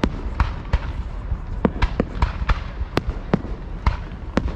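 Fireworks bursting at close range in a rapid, irregular series of sharp bangs, a couple each second, over a steady low rumble.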